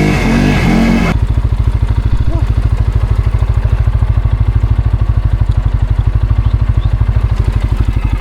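ATV engine, loud and revving for about a second, then cut off sharply to a steady idle with a fast, even low thump, about ten pulses a second.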